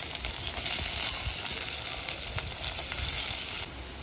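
Sliced onions and potato cubes sizzling and crackling in hot oil in a pan as they are stirred together. The sizzle drops off sharply near the end.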